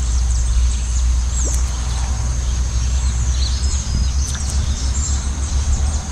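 Birds chirping in short, high calls over a steady low rumble.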